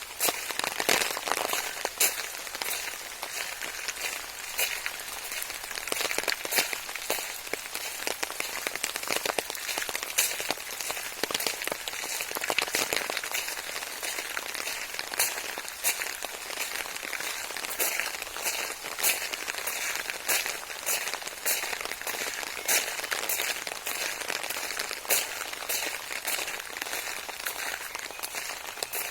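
Steady rain falling, with many close, irregular sharp ticks of drops striking nearby surfaces.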